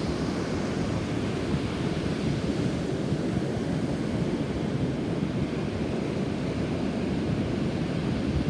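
Rough, storm-stirred sea surf washing onto a beach, mixed with strong wind buffeting the microphone. A steady, dense rush, heaviest in the low end, with no single wave standing out.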